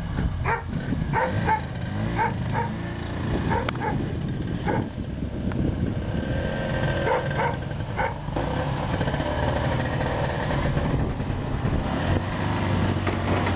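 Buran snowmobile's two-stroke engine running steadily while a dog barks repeatedly over it, the barks louder than the engine.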